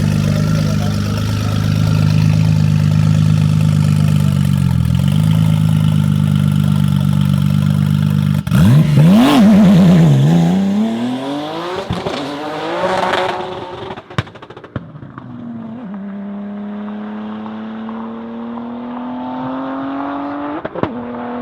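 Tuned Audi S4 B5's 3.0-litre biturbo V6 holding a steady engine note. About eight seconds in it launches hard: the pitch climbs and drops through quick gear changes, with sharp cracks. It then settles into a steady note that rises slowly as the car keeps accelerating.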